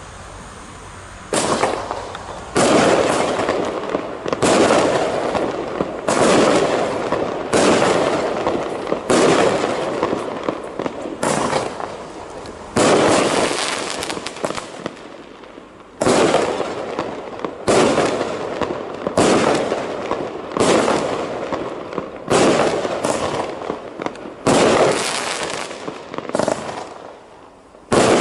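A 19-shot fireworks cake firing its shots one after another, roughly every one and a half seconds with a brief longer pause midway, each shot a sudden bang that fades out over a second or so.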